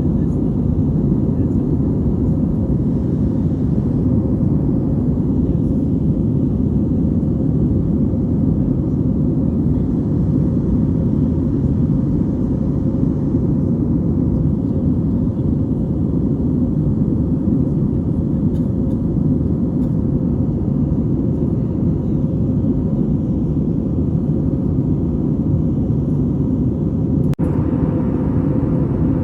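Steady, loud roar of jet engine and airflow noise inside an airliner's cabin, deep and even without a clear tone. A brief dropout near the end, after which the noise is slightly brighter.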